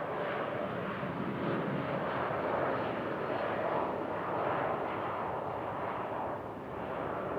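Jet airliner's engines, a steady rushing noise that swells and eases a little.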